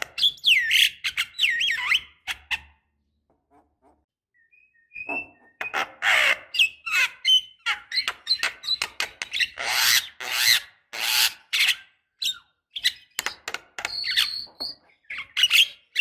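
Javan myna (jalak kebo) singing: a few gliding whistled notes, a pause of about two seconds, then from about five seconds in a dense, chattering run of harsh rasping calls, clicks and short whistles.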